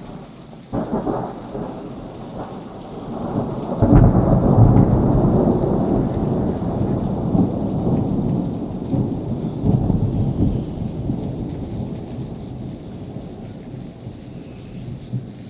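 Thunder: a sharp clap about a second in, then a louder crash a few seconds later that rolls into a long low rumble, slowly fading.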